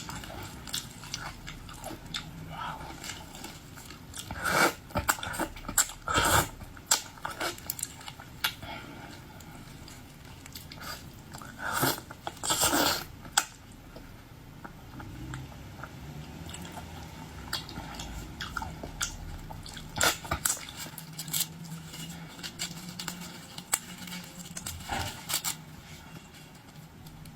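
Close-up chewing and biting of boiled seafood: irregular crunches and clicks, with a few louder bites.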